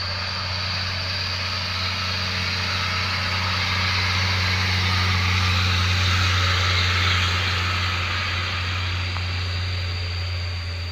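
Overloaded dump truck creeping down a steep descent: engine running under a steady low hum, with a thin high steady brake squeal as the brakes hold the heavy load. It grows louder toward the middle and eases off near the end.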